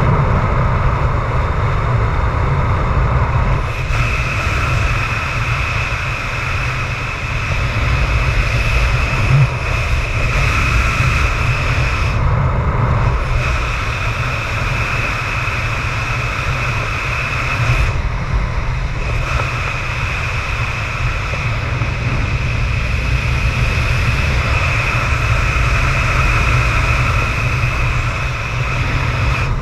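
Strong wind buffeting and rushing over the microphone, in a gale of about 25 m/s. A steady high whistle rides over it and drops out twice for about a second.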